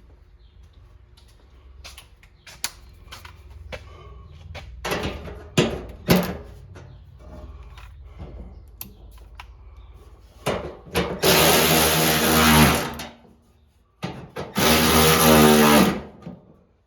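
An electric drill runs in two bursts of about two seconds each, driving a bolt. Before that there are scattered clicks and knocks of tool handling.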